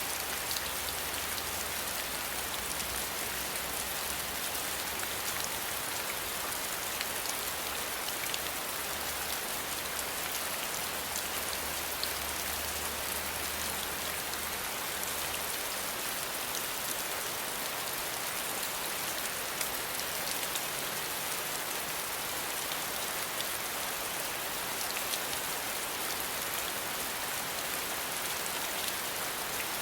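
Steady rain falling: an even hiss with fine scattered drop ticks. A faint low hum lies underneath and fades out about halfway through.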